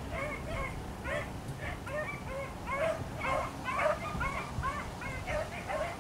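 A pack of beagles giving voice while running a cottontail rabbit's track: short, overlapping yelping calls, several a second.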